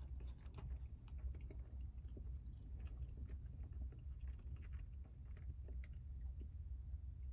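Someone chewing and biting food, with small irregular clicks and crunches, over a steady low hum.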